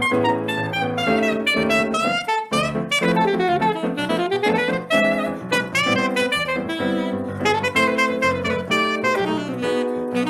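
Live Brazilian music with a saxophone playing a fast, bending melodic line over a band accompaniment that includes piano.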